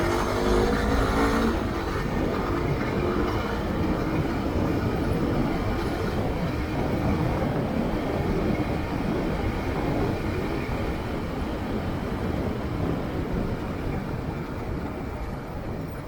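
Steady road and traffic noise of a vehicle on the move. An engine note sounds for about the first second and a half, then fades into the rush.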